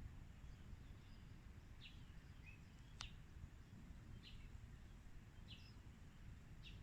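Faint short high bird chirps, about five spaced roughly a second apart, over a low outdoor background rumble, with one sharp click about three seconds in.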